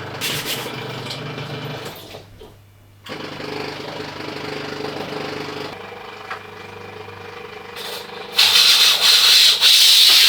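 Steam cleaner at work on a tiled kitchen wall: rubbing and scrubbing noise, then from about eight seconds in a loud, steady hiss of the steam jet.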